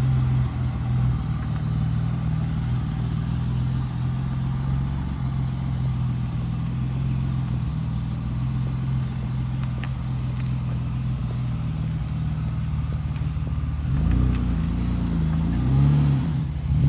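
Rebuilt BMW S50 straight-six with Schrick 264/256 camshafts, idling steadily. Near the end it is revved up and down a few times.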